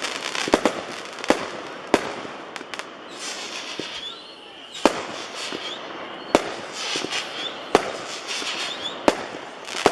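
A 25-shot consumer firework cake (200 g aerial repeater) firing its shots: about eight sharp bangs at uneven intervals, roughly one every second or so, over a constant noisy haze.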